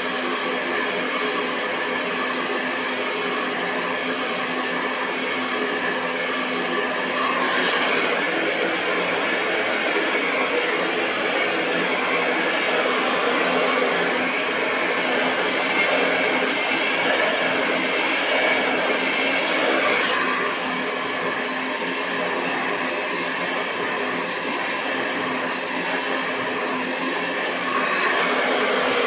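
Hair dryer running continuously: a steady rush of air over a motor hum and whine. Its loudness rises slightly about seven seconds in, falls back about twenty seconds in, and rises again near the end.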